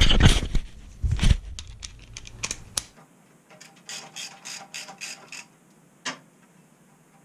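Socket ratchet clicking in a quick run, about five clicks a second, as exhaust mounting bolts are worked loose, with a single click after it. A few loud knocks of tools and hands on the bike come before it.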